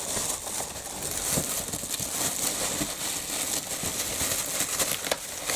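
Black plastic bin-bag wrapping crinkling and rustling as it is pulled off a parcel, with scattered small taps and clicks.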